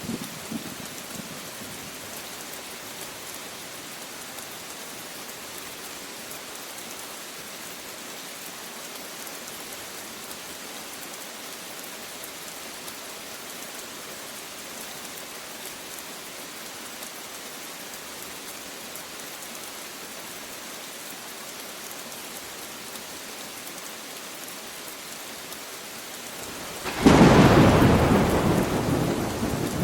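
Steady heavy rain hissing, then near the end a sudden loud rumble of thunder that slowly dies away.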